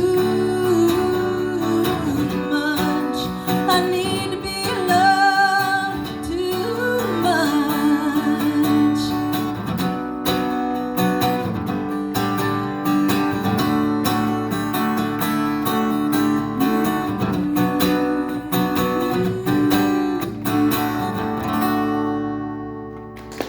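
A singer with a strummed acoustic guitar performing a song, the voice wavering on held notes in the first few seconds. Near the end the music thins out as the last chord dies away.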